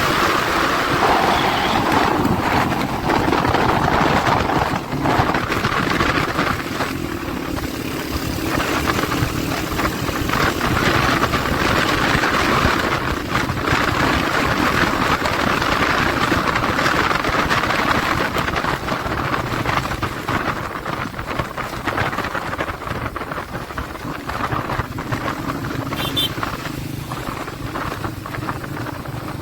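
Motorcycle engine running steadily, with a low, even engine note throughout.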